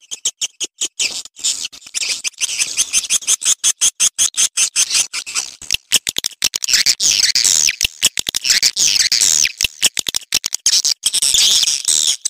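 Swiftlet mating calls: rapid strings of dry clicks mixed with high, fast twittering chirps. The chattering grows denser and more continuous about halfway through.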